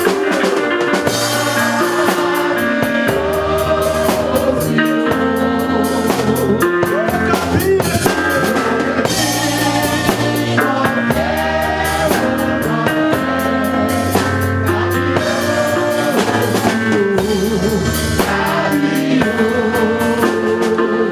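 Live church worship band playing gospel music: a drum kit with bass drum and rimshots keeping a steady beat under a low bass line, chords and a wavering melody line.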